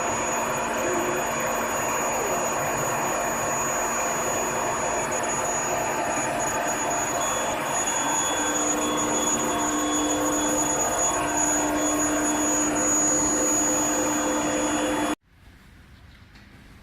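Steady loud industrial running noise from steel heat treatment furnace equipment: a rushing, blower-like sound with several steady high-pitched whines on top. It cuts off abruptly about fifteen seconds in.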